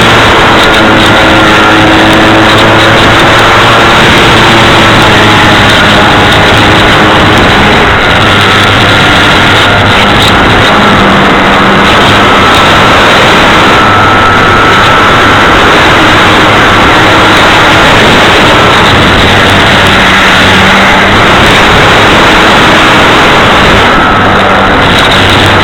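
Air rushing over a camera mounted on the wing of a radio-controlled Cessna model in flight, loud and constant, with the plane's motor and propeller whine underneath, drifting slowly in pitch.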